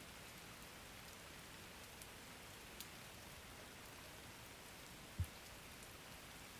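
Soft steady rain, an even hiss with a few scattered drop ticks. A single short low thump about five seconds in stands out above it.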